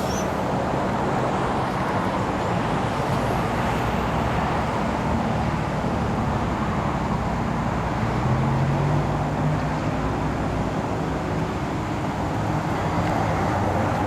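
Big-rig truck's diesel engine idling steadily, with a deeper engine hum joining about eight seconds in.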